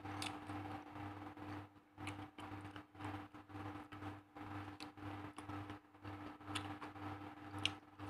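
Faint eating sounds: a few brief sharp mouth clicks from chewing rice and raw leaves, heard over a steady low hum that pulses about two to three times a second.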